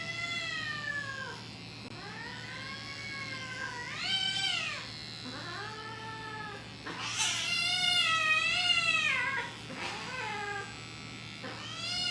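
Grey cat meowing repeatedly in drawn-out calls that rise and fall in pitch, about six in a row, the longest and loudest about seven seconds in. The cat is upset at being held and clipped.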